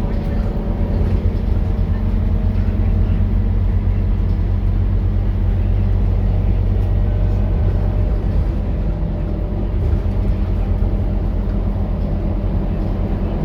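Scania K230UB city bus's diesel engine running steadily with a low drone, with its ZF automatic gearbox, at an even pitch and no clear gear change.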